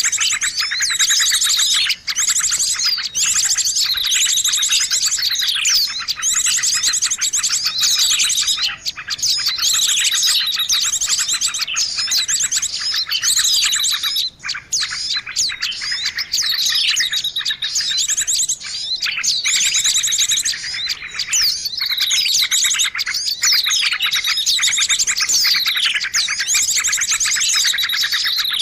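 A dense, continuous chorus of small birds chattering: rapid high chirps and fast trills packed one over another, the noisy lure call used to draw in birds.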